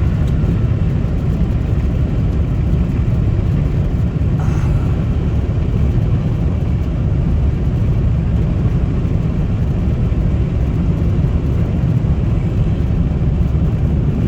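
Steady low road rumble heard inside a car cruising at highway speed.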